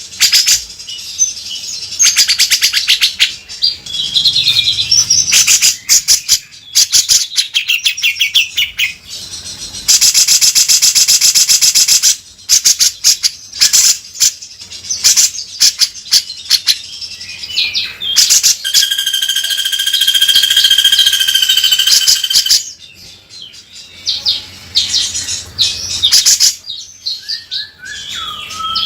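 Grey-cheeked bulbul (cucak jenggot) singing nonstop in coarse, rasping phrases: rapid chattering trills and scratchy harsh calls with short pauses between them, and one long held whistled call about two-thirds of the way through.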